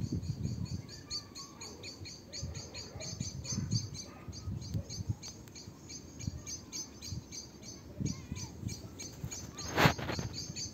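Small birds chirping in quick, repeated short high notes, several a second, over a low rumbling on the microphone. A single sharp knock near the end is the loudest sound.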